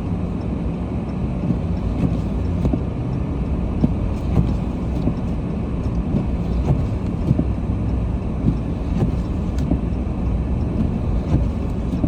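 Steady low rumble of a car being driven, heard from inside the cabin, with small irregular clicks and knocks scattered through it.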